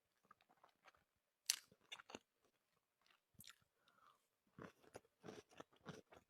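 A person eating close to the microphone: soft chewing with crisp crunches, the sharpest about a second and a half in and a run of them near the end.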